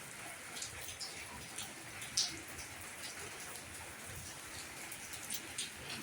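Heavy rain falling: a steady hiss with scattered sharp drop hits close by, one louder splat about two seconds in.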